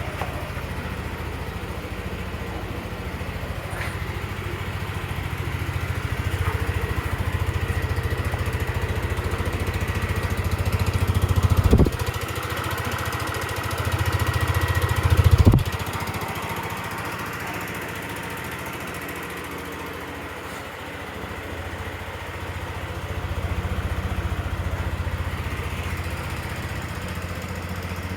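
Yamaha Majesty 125 FI scooter's single-cylinder four-stroke engine idling. Its revs rise twice around the middle and drop back sharply each time, and there is a gentler rise near the end.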